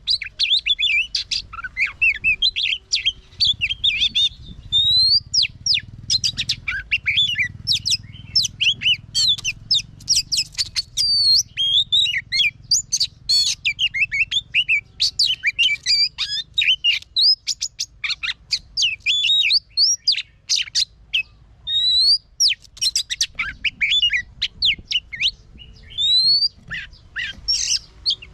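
Oriental magpie-robin singing a long, varied song of whistled glides, rapid chattering notes and sharp clicks, with hardly a pause.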